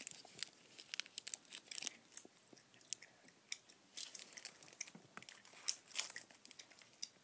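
Candy being chewed close up: irregular crisp crunches and clicks, with a candy bar wrapper handled.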